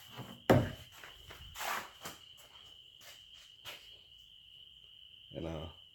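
A steady high-pitched trilling tone, with a sharp knock about half a second in and a few lighter clicks and rustles of handling after it.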